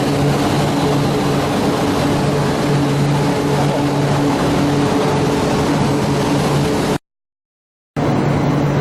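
Steady running noise of a train heard from inside the carriage, a constant rumble with a low hum over it. It cuts out to dead silence for about a second near the end, then resumes.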